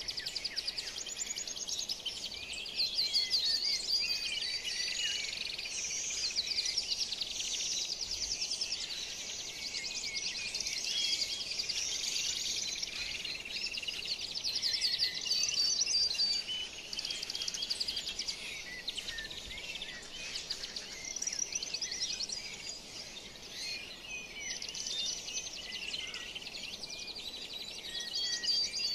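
A dense chorus of birds chirping and trilling, many calls overlapping continuously with rapid repeated notes.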